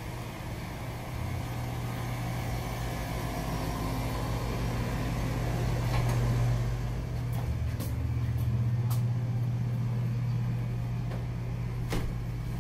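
Steady low engine hum, with a few sharp clicks in the second half.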